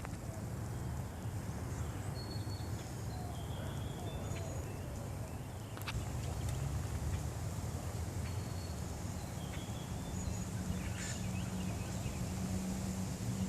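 Wind blowing on the microphone, a steady low rush, with faint short bird chirps.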